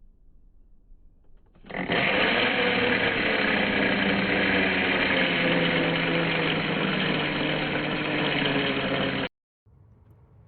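A motor running steadily at one speed, starting about two seconds in and cutting off abruptly about seven seconds later.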